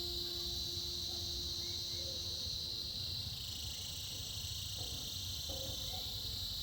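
A chorus of cicadas buzzing in a steady, high-pitched drone.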